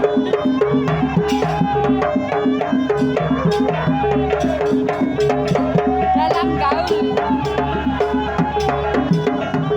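Javanese jaranan gamelan music playing: a steady, even pattern of repeated metallic notes and drum strokes, with a wavering melody line above it.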